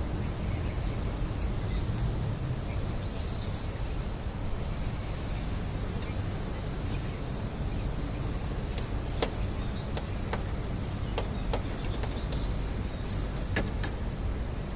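Small birds chirping faintly over a steady low rumble of outdoor background noise, with a few short sharp ticks in the second half.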